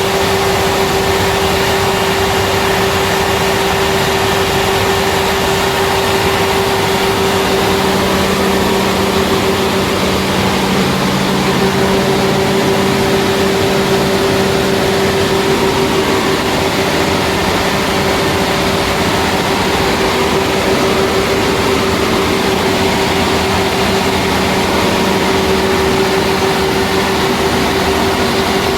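Scania 360 hp diesel engine running steadily at a constant speed, a loud, even drone with a steady hum.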